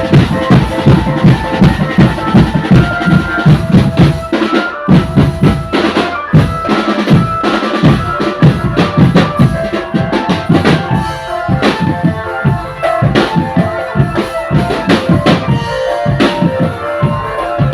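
Drum band playing: bass drums and snare drums beating a fast, steady rhythm, with a melody line over them.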